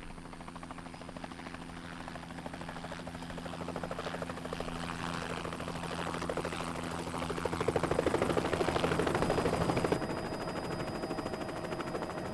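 Reconnaissance helicopter flying over with a fast, steady rotor chop. It grows louder and is loudest a little past the middle, then fades slightly.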